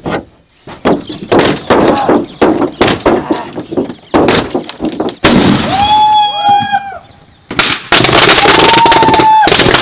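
A rapid string of loud bangs and cracks, then two loud hissing rushes, each carrying a whistling tone that bends up and down, as from firecrackers and whistling fireworks going off.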